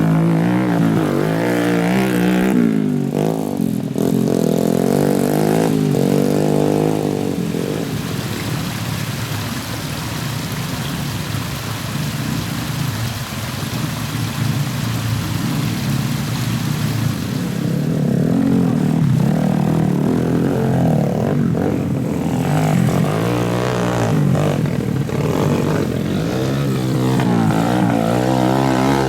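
Trail motorcycle engines revving, their pitch rising and falling again and again. The revving eases into a steadier hiss and rumble for about ten seconds in the middle, then picks up again.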